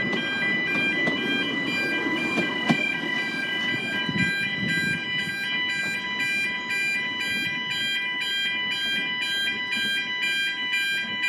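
Level crossing warning alarm sounding continuously as a rapid, repeating on-off pattern of high electronic tones, over a low background rumble.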